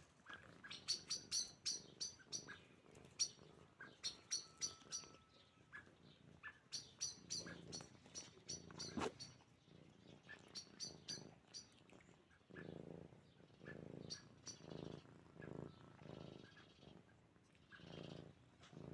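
Domestic cat purring in a slow, even in-and-out rhythm, plainest in the second half. Many short, sharp clicks and chirps come in clusters through the first two thirds.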